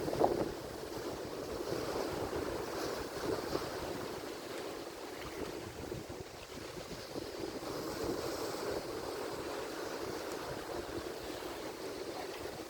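Atlantic Ocean surf washing steadily on the shore, with a louder wave breaking just after the start and gentler swells later.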